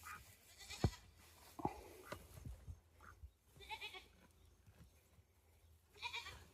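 Goats bleating now and then, with a few sharp knocks about one and two seconds in.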